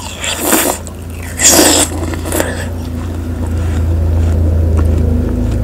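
Close-miked bite of juicy watermelon, with a few short wet crunches and slurps in the first two seconds, then chewing over a steady low hum.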